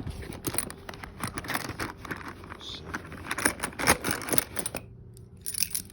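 Metal hand tools being rummaged and handled in a tool tote bag: an irregular run of clicks, clinks and rattles, a short pause near the end, then a brief last flurry.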